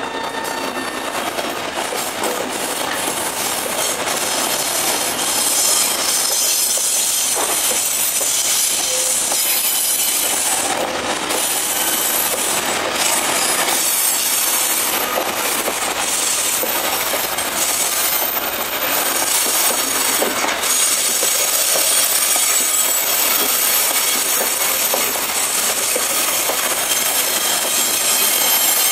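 Freight train of covered boxcars rolling past close by, steel wheels running and clattering on the rails, with a thin high metallic squeal from the wheels on the curving track. The noise grows a little louder about six seconds in and then holds steady.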